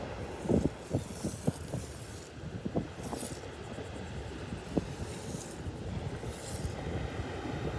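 Wind buffeting the microphone with irregular thumps, over the hiss of Atlantic surf washing on the beach, which comes and goes in several soft swells.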